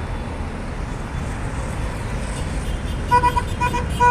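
Steady low rumble of slow-moving cars. About three seconds in, a car horn starts honking in a quick series of short beeps.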